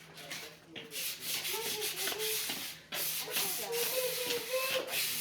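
Sword blade being sharpened: a steady abrasive rasping of metal rubbed against a sharpener, starting about a second in, with a short break near the three-second mark.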